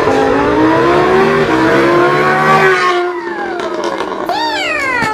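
Lamborghini engine being revved in place: a long rev that climbs in pitch for a couple of seconds and then falls away, followed by a short, sharp rev blip near the end that drops quickly back down.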